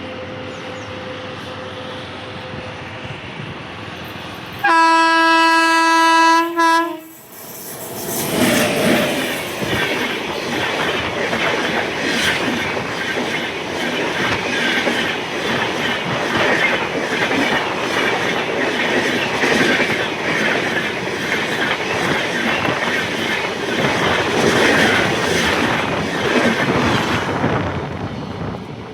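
A train horn sounds once, loud and steady for about two seconds, over a low hum. Soon after, a train passes close by, its wheels clattering over the rail joints for about twenty seconds before the sound drops away near the end.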